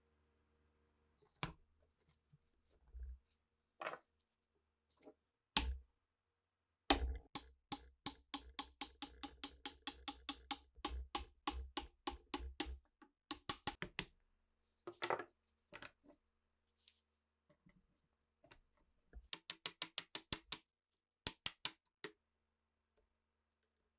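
Sharp taps and clicks from hand work on old rifle parts: a steady run of about four a second in the middle, a few louder knocks after it, and another quick run near the end.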